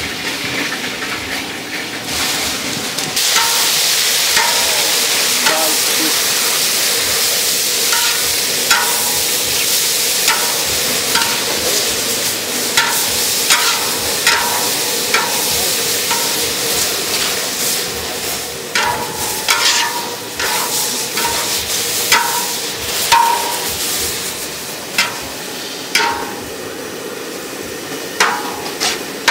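Food sizzling as it fries in a pan, louder from about three seconds in, while a metal utensil repeatedly strikes and scrapes the pan in short ringing clinks.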